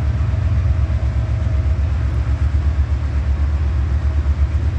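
Long train rolling slowly past, a steady low rumble.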